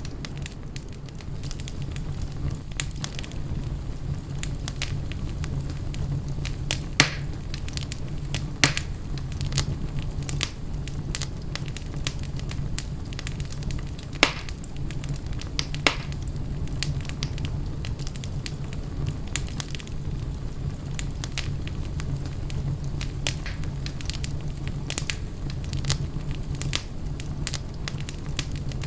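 Wood fire burning in a fireplace: a steady low rumble of flame with irregular crackles and occasional louder pops.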